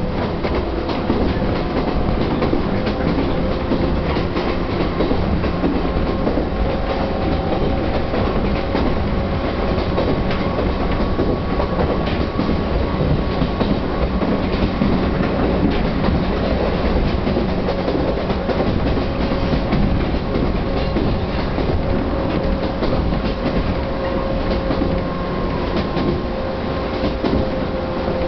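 Chichibu Railway 1000 series electric train (ex-JNR 101 series) running at speed, heard from inside the car: a steady rumble of wheels on rail with a faint electric motor whine and scattered light clicks.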